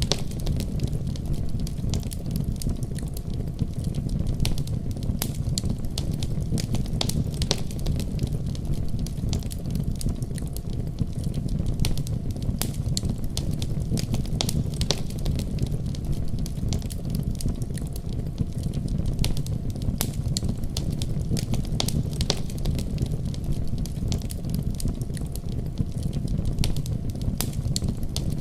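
Wood fire crackling in a fireplace, with frequent irregular sharp pops and snaps, over a steady deep rumble of a snowstorm's wind.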